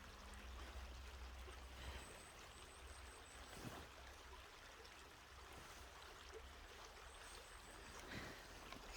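Faint, steady trickle of running stream water.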